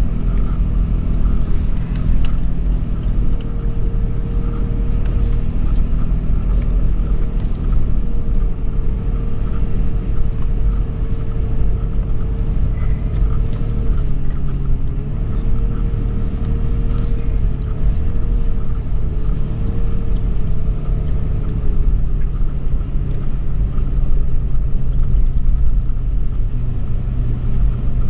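2013 Toyota 4Runner's V6 driving on sand: a steady, loud low rumble, with a thin tone that wavers slightly in pitch from a few seconds in until about two-thirds of the way through.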